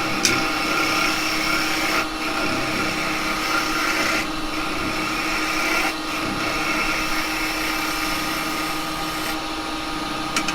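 Axminster 1628 wood lathe running with a steady motor hum while a spindle gouge cuts into a spinning wet cherry blank, the cutting noise rising and falling with each pass.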